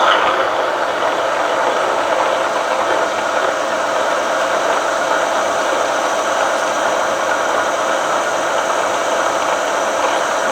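Milling machine spindle running steadily while a large twist drill, about 15/16 inch, bores into a very hard steel crankshaft counterweight to make a hole for a Mallory heavy-metal plug.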